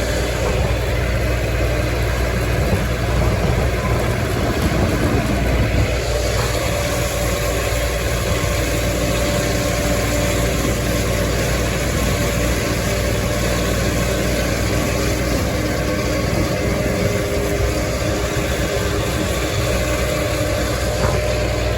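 Massey Ferguson farm tractor engine running steadily in the hay field, with a continuous low rumble.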